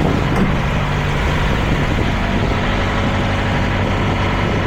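Semi truck's diesel engine idling steadily, a low, even hum.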